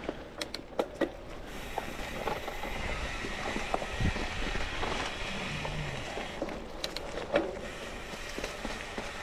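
Mountain bike rolling along a dirt trail: steady tyre rush with sharp clicks and rattles from the bike, the rushing growing louder for a few seconds mid-way.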